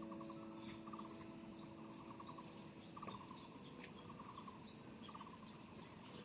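Faint, short pulsed trills repeating about once a second: animal calls from the creekside at night. A held music note fades out about halfway through.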